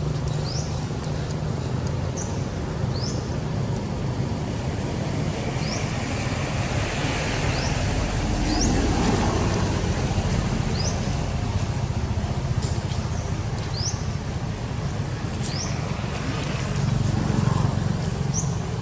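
Steady road-traffic rumble with a vehicle passing about halfway through, while a bird repeats a short, rising high chirp roughly once a second.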